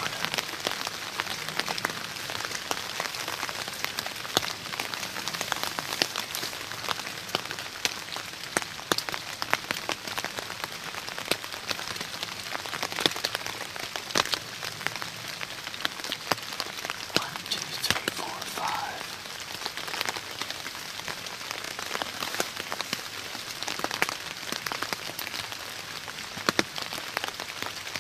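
Steady rain falling, with many sharp raindrop ticks close by.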